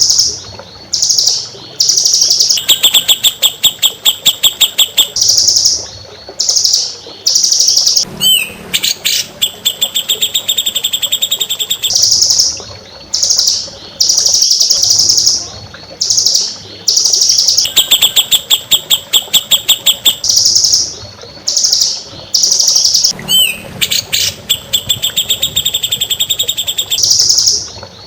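Recorded songbird song: bursts of short, high chirps alternating with fast trills of about nine notes a second, a few sharp rising whistles between them. The sequence repeats about every 15 seconds, a looped masteran track for teaching kept songbirds.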